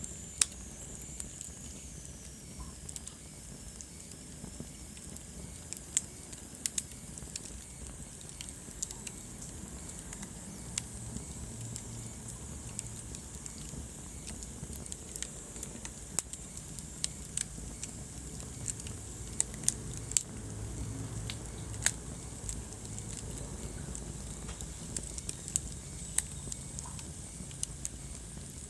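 Wood fire burning in a fireplace: a steady low rumble of flames with irregular crackles and pops, a few of them sharp and loud. A faint high whistle drops in pitch over the first few seconds.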